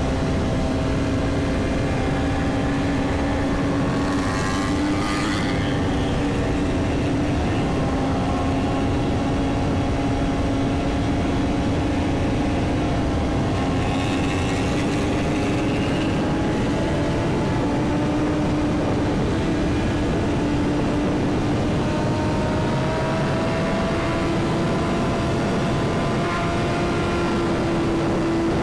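BMW S1000RR sport bike's inline-four engine running at a steady cruise, its pitch creeping slowly up in the second half, over a constant rush of wind noise.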